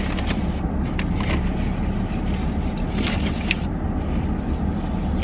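Steady low rumble of a car heard from inside the cabin, with a few short clicks scattered through.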